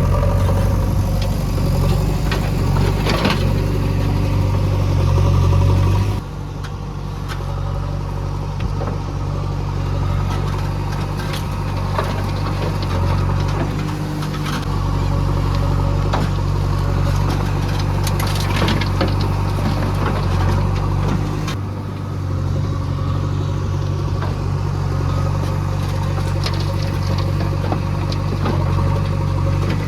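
JCB 3DX backhoe loader's diesel engine running steadily, with scattered sharp knocks and clanks over it. The engine sound drops abruptly about six seconds in and again past twenty seconds.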